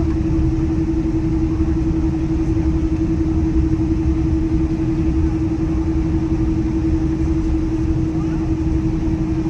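Cabin noise of a Boeing 777-200ER taxiing: a steady engine hum with one constant tone over a low rumble.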